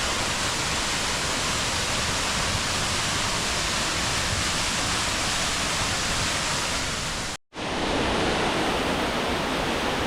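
Waterfall: a steady rush of falling water, cutting out for an instant about seven and a half seconds in.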